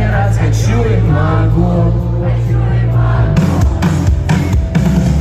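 Live rock band playing with sung vocals over a heavy, sustained bass. About three and a half seconds in, the drums come in with sharp, regular hits.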